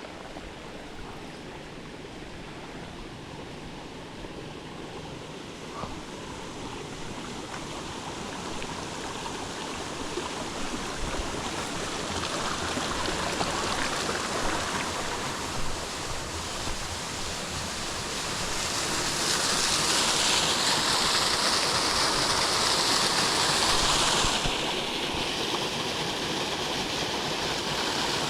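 Flowing water of a rain-fed stream, a steady rush that grows louder throughout and is loudest about two-thirds of the way in, easing slightly near the end.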